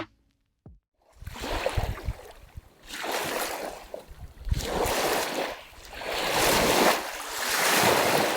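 Strong wind gusting over the microphone, a rushing noise that swells and fades in waves every second or two, with low buffeting thuds. It starts about a second in, after a brief silence.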